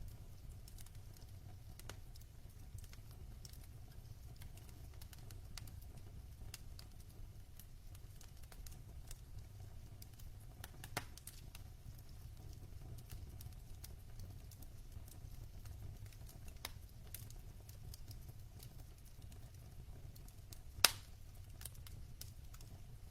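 Log fire in a fireplace burning with a low steady rumble and sparse, faint crackles. A single pop about halfway through and one sharp, loud pop near the end.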